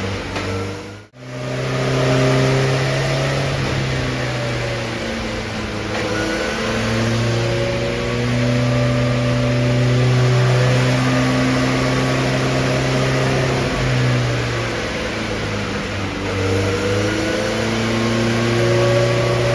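750 Formula race car's newly built engine running on a rolling road, its revs held and changing in slow pulls, with a short cut-out about a second in and a slow rise in revs near the end.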